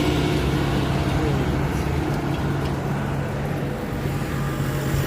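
Steady low hum of a motor vehicle's engine, with road noise.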